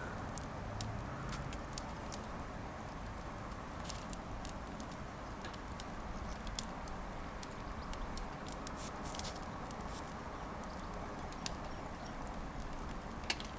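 Logs burning in a washing-machine-drum fire pit: a steady hiss with many scattered sharp crackles and pops.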